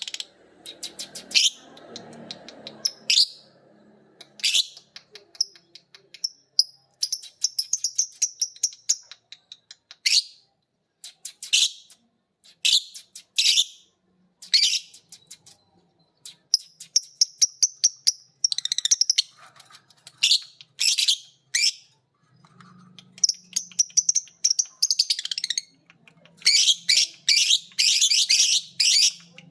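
Lovebirds chattering in the long rapid 'ngekek' call: runs of very fast, sharp, high chirps in bursts with short pauses between them, the densest run near the end.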